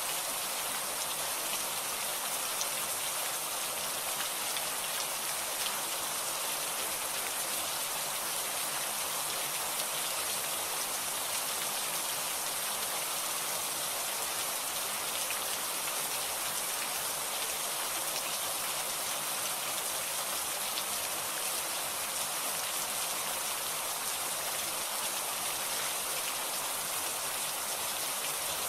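Steady heavy rain falling and pattering on surfaces, with a few light drop ticks.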